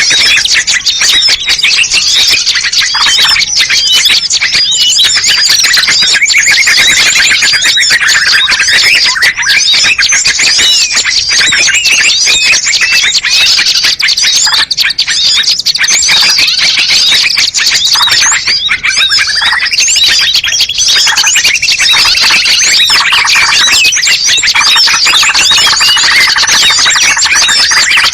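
Loud, dense mix of many small songbirds chirping, squeaking and trilling over one another without a break: a mixed bird-lure recording.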